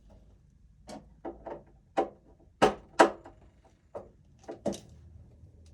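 A string of about a dozen sharp clicks and knocks, the two loudest about two and a half and three seconds in: hand tools and hardware being handled while working inside an electrical breaker panel.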